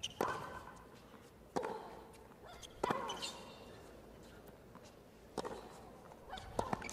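Tennis rally: a ball being struck back and forth by rackets and bouncing on the hard court. There are about five sharp pops, each a second or more apart, with one longer gap in the middle.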